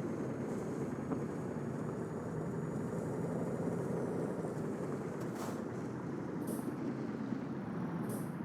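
Scania truck running, a steady engine and road rumble, with three short hisses of air in the second half.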